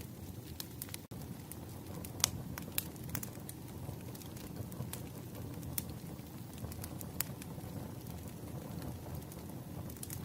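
Fire crackling: a steady low rumble of burning with sharp, irregular pops and snaps, the loudest about two seconds in. The sound briefly drops out about a second in.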